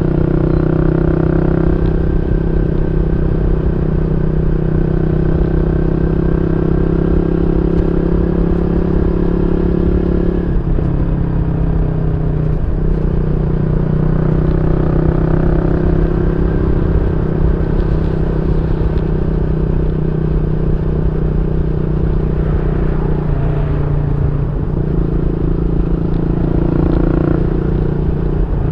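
Yamaha Y15ZR's 150cc single-cylinder engine running through a YYPANG SD3 aftermarket exhaust. It runs at a steady speed, with brief dips in pitch about ten and twelve seconds in and another change around two-thirds of the way through.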